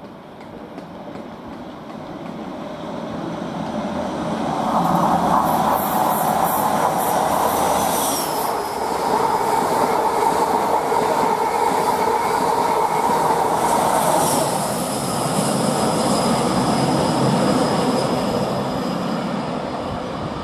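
East Midlands Railway Class 43 HST passing through the station at speed. The diesel power cars and coaches build up as it approaches, run loud for about fifteen seconds, then ease off as it draws away. A thin high-pitched whine sounds twice, the second time longer.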